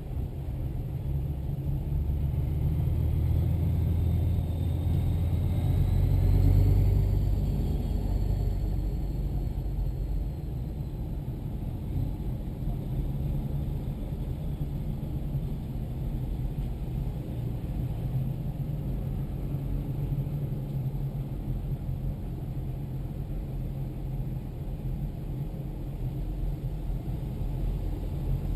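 Diesel tractor engine running steadily on the road, a low rumble that swells slightly with a faint rising and falling whine a few seconds in.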